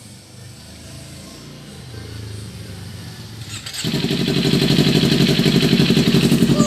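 Kawasaki Ninja 250's parallel-twin engine through a Nine Exhaust GP1 short slip-on muffler. A faint low rumble slowly grows, then about four seconds in the exhaust note comes in loud and steady with a rapid, even pulse.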